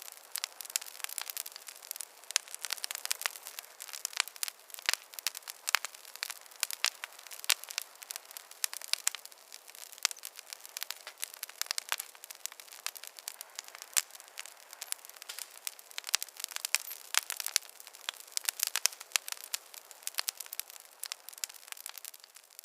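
Wood fire crackling in a fireplace: a dense, irregular run of sharp, high-pitched pops and snaps over a faint hiss, with no low rumble.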